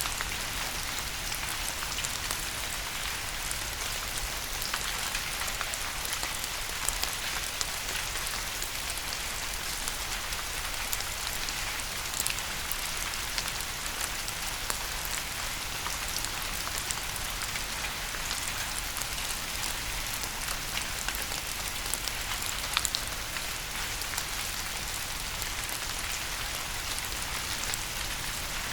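Steady rain falling, with many separate drops ticking and pattering on a surface.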